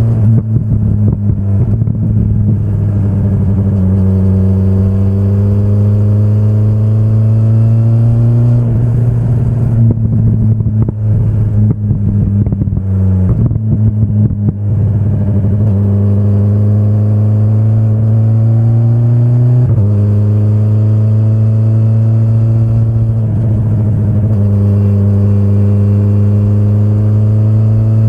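2025 BMW S1000RR's inline-four engine under way, its pitch climbing as it pulls, with sharp drops in pitch about 13 and 20 seconds in. Between about 9 and 15 seconds the note turns choppy and uneven.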